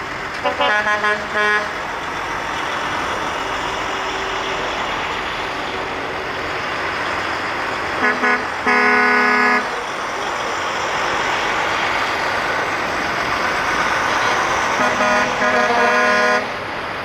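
Truck air horns tooting in three bursts: a few short toots near the start, two short blasts then a longer one about halfway through, and a run of short toots near the end, over a steady rumble of passing trucks.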